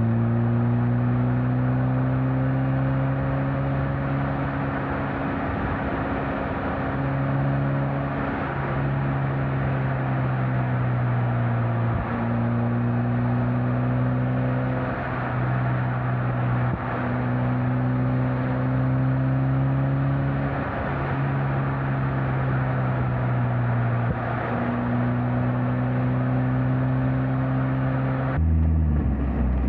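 Mazda Miata NC four-cylinder engine and exhaust pulling steadily while driving, with tyre and wind noise. The engine note dips briefly about six times. The sound turns duller and boomier near the end.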